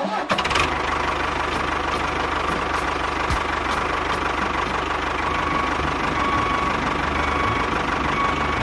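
Steady engine-like running sound of a mini tractor or bulldozer machine, idling evenly without revving.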